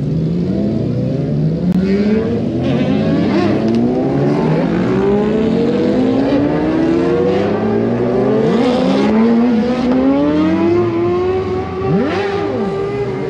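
Car engines accelerating, their pitch climbing steadily in long overlapping sweeps, with a quick sharp rev that rises and drops about twelve seconds in.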